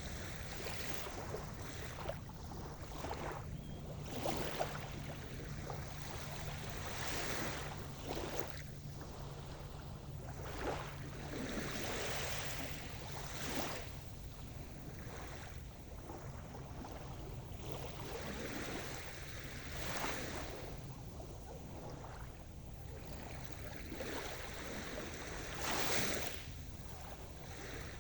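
Sea surf: waves breaking and washing up the shore in repeated surges every few seconds, the loudest near the end.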